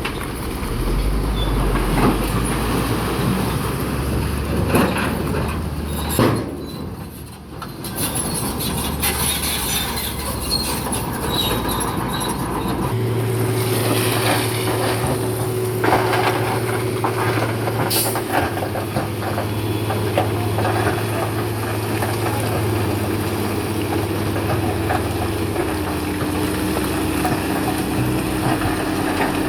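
Bulldozer's diesel engine running under load, with rock clattering and knocking as it is pushed. About halfway through the engine settles into a steadier, even hum.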